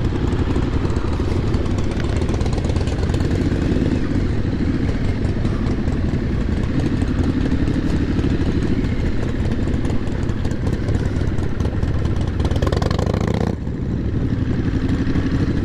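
Triumph motorcycle engine running steadily at low speed, with a steady rush of noise over it. Near the end the sound briefly swells and then drops away suddenly.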